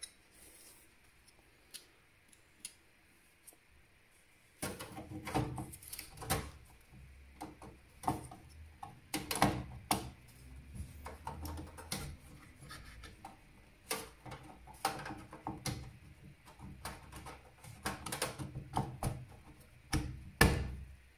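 Irregular clicks, taps and knocks of computer hardware being handled inside a desktop PC case as the graphics card is refitted, starting after a few quiet seconds.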